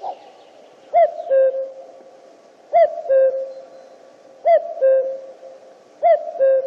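Male common cuckoo (Cuculus canorus) calling its two-note "cu-coo", the second note lower, four times at an even pace of about one call every second and a half to two seconds, each call trailing a lingering echo.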